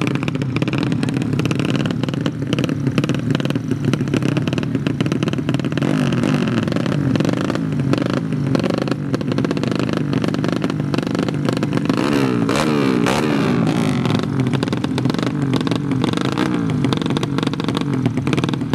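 Several underbone motorcycle engines revving, their pitches rising and falling and crossing each other about two-thirds of the way through.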